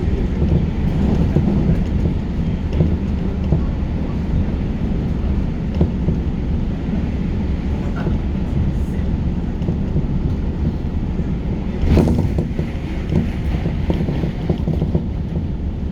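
Inside a New Rapid electric commuter train running at speed between stations: a steady low rumble of wheels on rails and running gear, with one sharp clack about three quarters of the way through.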